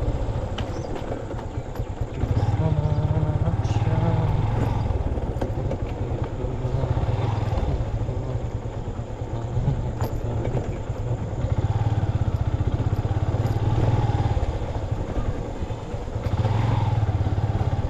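A motorbike engine running under way, its steady low hum picking up as the throttle opens about two seconds in and again near the end.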